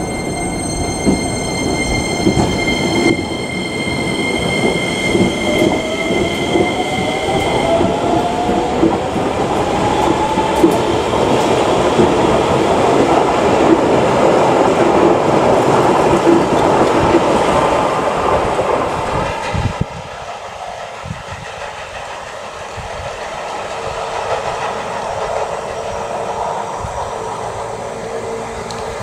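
Electric train running through a station with wheel clatter on the rails, and its motor whine rising in pitch as it picks up speed. About twenty seconds in, the sound drops suddenly to a much quieter background with a faint steady hum.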